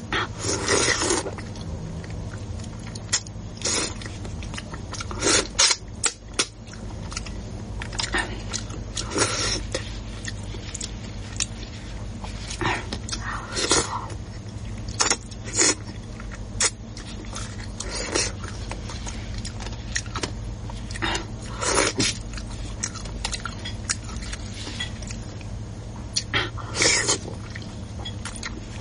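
A person eating close to the microphone: chewing and mouth noises in irregular short bursts, over a steady low hum.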